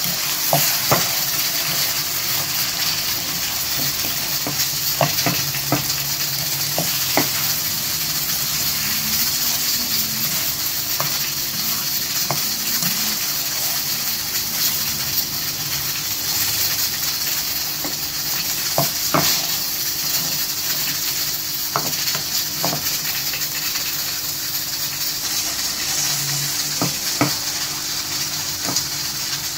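Sarson ka saag frying in desi ghee in a non-stick pan, sizzling steadily while a steel spoon stirs it, scraping and clicking against the pan every few seconds.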